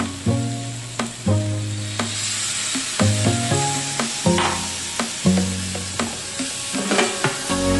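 Butternut squash cubes sizzling in a frying pan, with a spatula stirring and scraping through them near the end, under background music with held notes and a low bass line.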